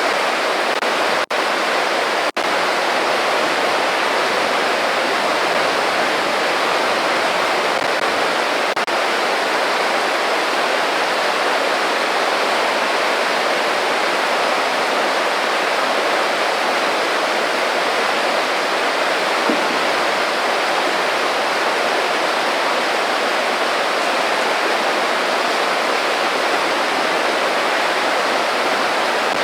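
Small creek babbling steadily, an even rush of flowing water. The sound drops out very briefly twice, just over one second and about two seconds in.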